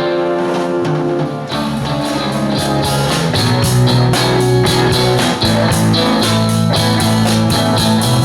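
Rock band playing an instrumental passage led by guitar, with drums keeping a steady cymbal beat; a heavy bass line comes in about three seconds in.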